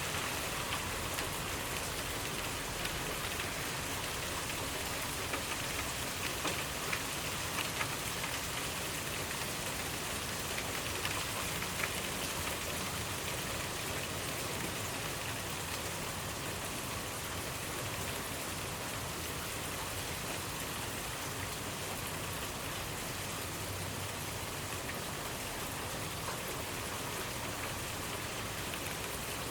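Steady rainfall, drops pattering on a surface, with a few louder individual drops standing out in the first half.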